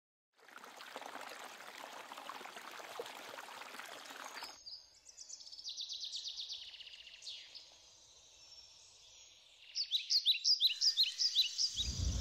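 Outdoor ambience: a steady rushing noise for the first four seconds or so, then birds singing with high trills. From about ten seconds in a bird repeats quick falling chirps, about four a second. A loud low thud sets in near the end.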